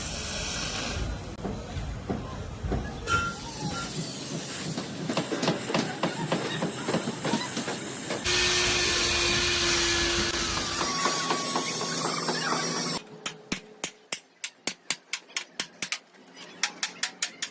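Truck workshop metalwork. First there is irregular metal clatter and ticking. About eight seconds in, a steady hiss like air or spray begins. About thirteen seconds in, it cuts off and a run of sharp metal knocks follows, several a second.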